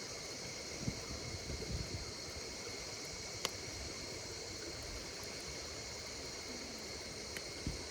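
Wood fire crackling with a few sharp pops, the clearest about three and a half seconds in, over steady high-pitched chirring of insects.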